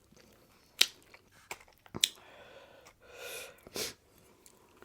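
A person chewing a mouthful of pizza close to the microphone: a few sharp wet mouth clicks and smacks, and two short breathy swells a little after halfway.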